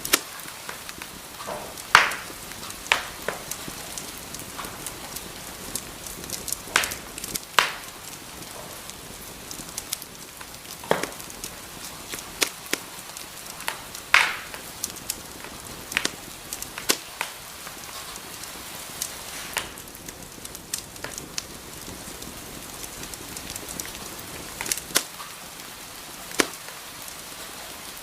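Wood fire in a fireplace crackling: a steady soft hiss broken by sharp, irregular pops and snaps of burning wood, a few every couple of seconds.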